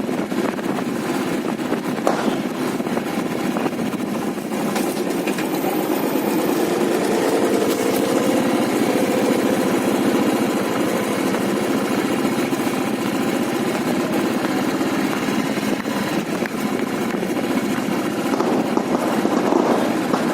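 Motorcycle engine running steadily while being ridden, with road noise.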